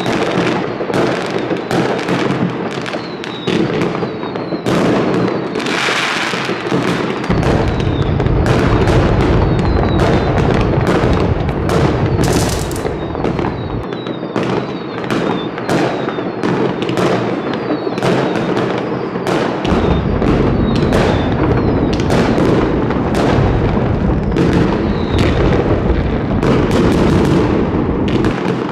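Many aerial fireworks going off at once: a dense, continuous run of bangs and crackles from shells bursting overhead, with a deep rumble underneath for long stretches.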